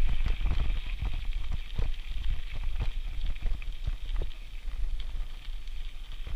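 Bicycle rolling along a rough trail, rattling with irregular clicks and knocks, over a low wind rumble on the microphone.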